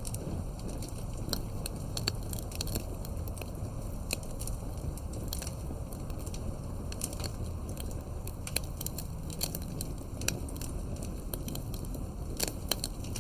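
Wood fire burning, with irregular sharp pops and crackles of burning wood over a steady low rumble of the flames.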